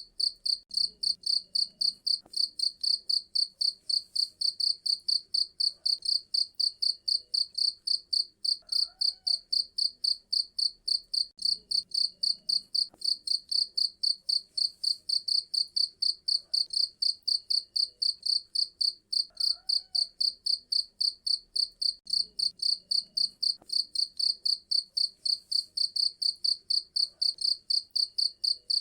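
A cricket chirping steadily in a fast, even rhythm of about three high-pitched chirps a second.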